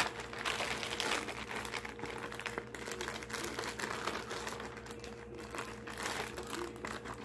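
Homemade slime being squeezed and stretched by hand, making a continuous run of small clicks and crackles.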